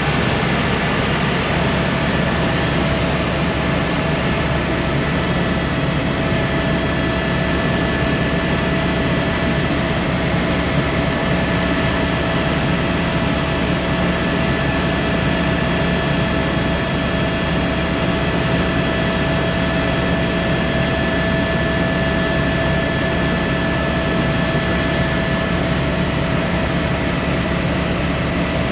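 Helicopter running steadily: a constant low hum with a steady whine over it, with no change in pitch or level.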